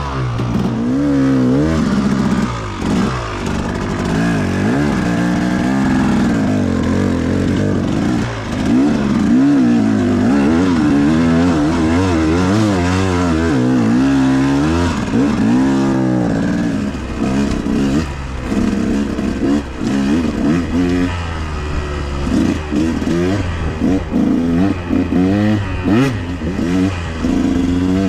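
Dirt bike engine being ridden hard, its pitch climbing and dropping again and again as the throttle is worked.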